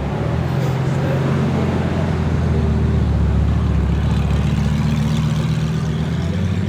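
Lamborghini engine running steadily at low revs, a low, even engine note with no revving.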